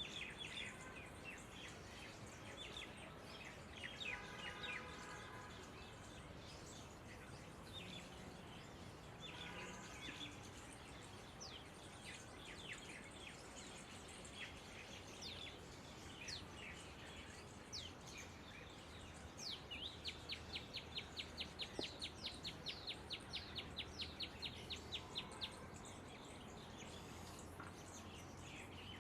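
Wild birds chirping, faint, with scattered short high calls. About two-thirds of the way in, one bird gives a fast, even run of high chirps, about five a second, lasting some six seconds.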